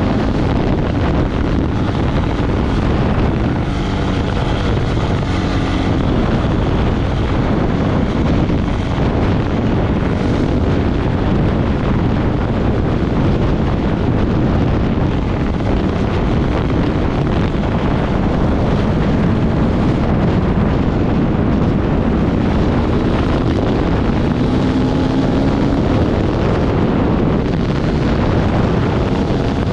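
Dirt bike engine running under load while riding, its pitch rising and falling now and then, under heavy wind noise on the microphone.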